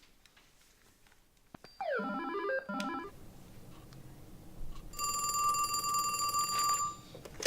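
Telephone ringing: a single steady electronic ring lasting nearly two seconds, about five seconds in. It is preceded, about two seconds in, by two short rising glides.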